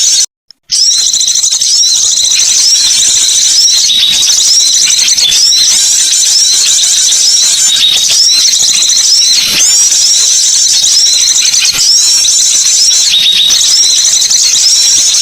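Loud, dense high-pitched bird chirping and twittering from a bird-lure call recording, going on without pause apart from a brief silent gap about half a second in.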